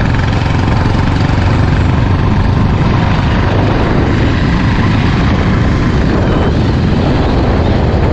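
Motorcycle riding at a steady speed: the engine running under a loud, steady rush of wind on the camera.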